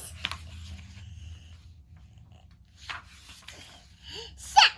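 A child's mouth sound effects: short breathy snorts and gasps, then a loud brief vocal cry near the end.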